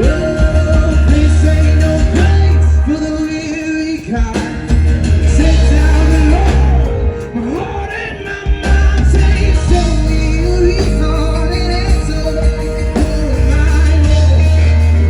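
A live band playing a rock-pop song, with singing over a heavy bass line.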